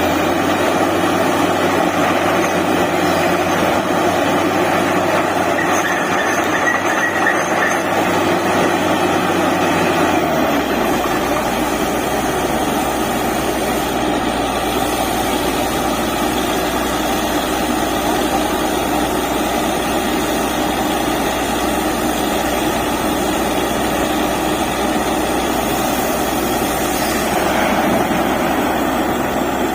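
Truck-mounted DTH borewell drilling rig running steadily: a heavy diesel engine under load. A deeper low rumble comes in about ten seconds in.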